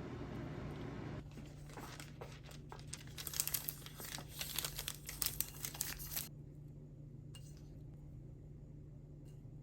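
Crinkling and crackling, like something being crumpled or torn, for about five seconds, then it stops, leaving a steady low hum.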